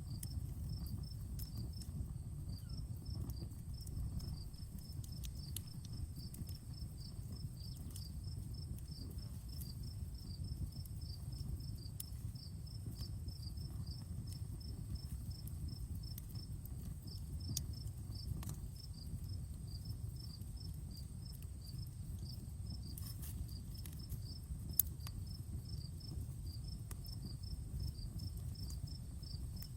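Campfire burning with a steady low rush and sparse faint crackles, one sharper pop about 25 seconds in, while crickets chirp steadily in a fast, even rhythm.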